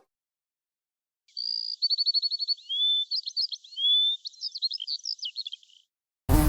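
A songbird singing a varied song, starting about a second in: a rapid trill of high notes, slurred whistles and quick chirps. A brief loud noise cuts in near the end.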